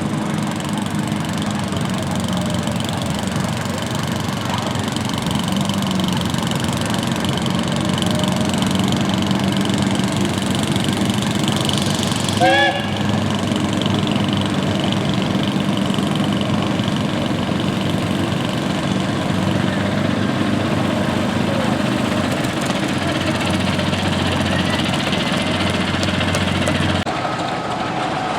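Small garden tractor engine running steadily, with a short high-pitched squeal about twelve seconds in and a change in the engine sound near the end.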